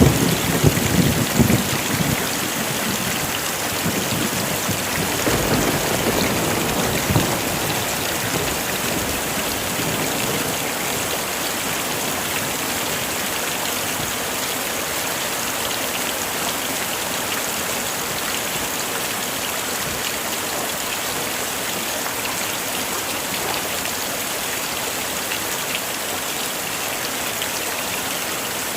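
Heavy rain falling steadily, a dense even hiss of drops. A few low rumbles, typical of distant thunder, come through in the first several seconds.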